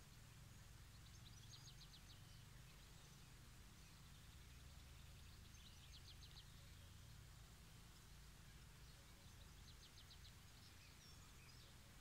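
Near silence outdoors with a low steady rumble, broken three times by a faint, rapid high trill from a small bird.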